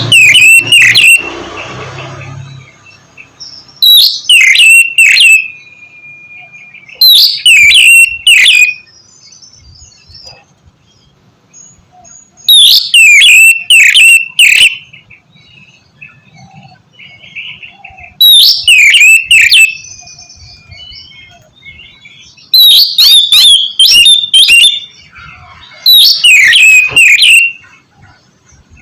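Oriental magpie-robin (kacer) singing loud, short phrases of rapid sweeping whistles. About seven phrases come a few seconds apart, with quiet gaps between them.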